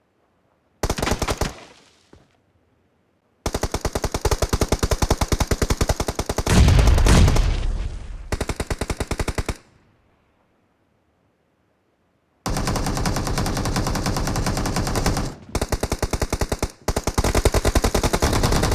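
Video game automatic gunfire in rapid bursts: a short burst about a second in, a long burst with a heavier, deeper stretch about seven seconds in, then after a few seconds of dead silence near-continuous fire broken by two brief pauses.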